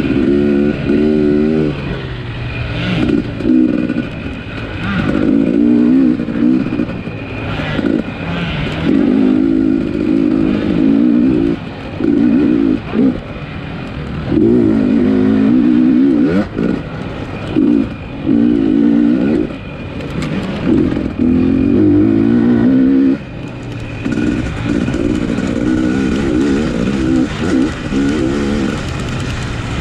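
250cc off-road race motorcycle engine revving hard in repeated surges, the pitch climbing and dropping as the throttle is opened and chopped, with brief dips between surges.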